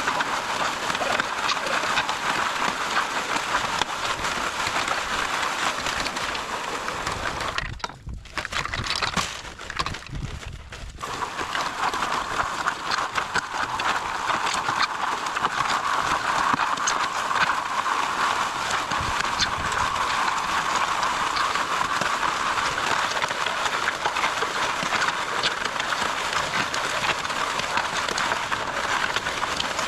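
MudMixer concrete mixer running steadily, with a rhythmic clatter from the mixing and augering of concrete. It drops off briefly about eight seconds in, then picks up again.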